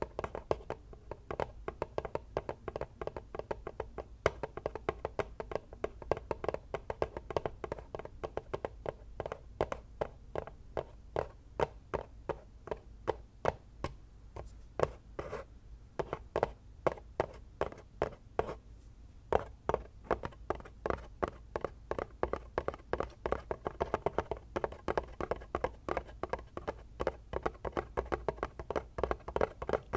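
Fingers tapping quickly on hard household objects, several taps a second, with a short sparser stretch about halfway through.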